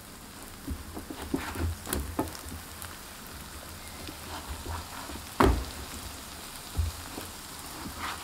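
Flatbreads frying in oil on an electric griddle, sizzling steadily, while silicone spatulas flip them with scattered light taps and scrapes on the pan. There is one louder knock about five and a half seconds in.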